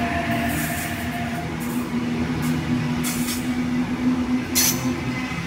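Sydney Tangara electric suburban train running past at close range, with a steady low hum and a higher tone that fades out in the first second or so. A short burst of high-pitched noise comes from the train near the end.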